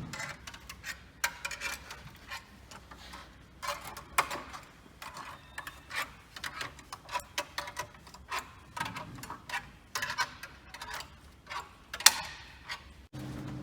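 Irregular sharp clicks and light metallic knocks, several a second, from work on a truck engine. Near the end they stop abruptly and a steady machine hum starts.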